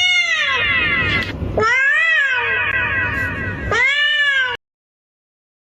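A cat meowing loudly three times, long drawn-out calls that rise and then fall in pitch, the middle one the longest. The sound then cuts off abruptly.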